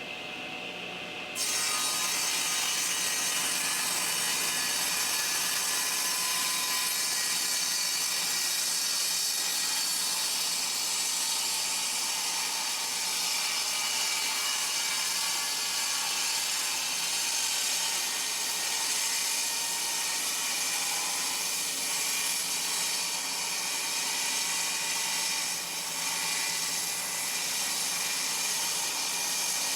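Table saw ripping a shallow shaving off the edge of a dense, heavy hardwood board. The already running saw jumps abruptly to a loud, steady cutting noise about a second and a half in as the blade enters the wood, and it holds steady under load.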